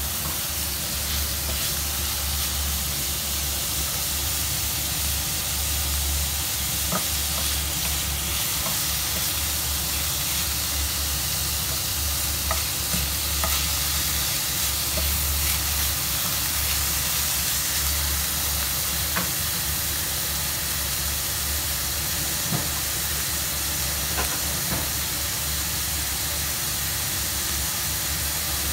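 Diced meat and chopped green vegetables sizzling gently in a nonstick frying pan while a wooden spatula stirs them, with a few faint clicks of the spatula against the pan. A steady low hum runs underneath.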